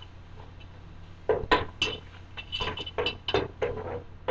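A spoon stirring onions, garlic and tomatoes in spiced oil, knocking and scraping against the cooking pot in a quick run of strokes starting about a second in.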